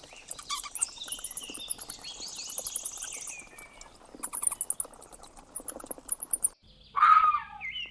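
Bats squeaking and chittering: rapid trains of very high chirps and clicks. Near the end a few louder, lower squeals follow an abrupt change in the background.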